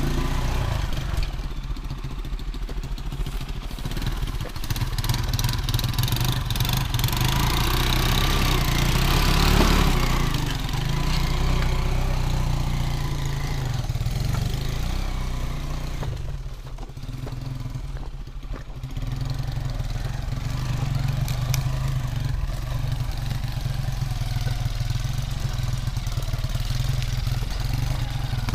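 Small motorcycle engine running under load on a rough trail. It rises in revs about nine seconds in and eases off briefly a little past the middle, with scattered knocks and rattles over the bumps.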